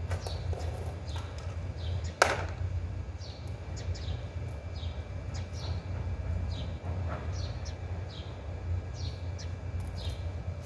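A small bird chirping over and over in short, high, falling chirps, over a steady low hum. About two seconds in there is one sharp knock, the loudest sound.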